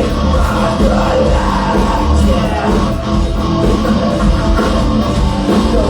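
Loud live rock band playing, with electric guitars, bass and drums, heard from the audience.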